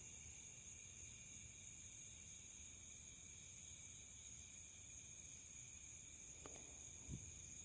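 Faint, steady chorus of crickets at night, with a soft knock about seven seconds in.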